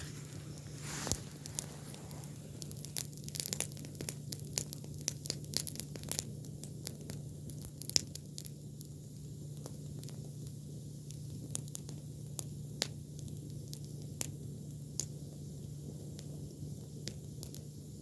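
Campfire of freshly cut, green kkujippong (Maclura tricuspidata) branches crackling and popping, the sharp pops coming thickest in the first eight seconds or so and sparser after, over a steady low hum.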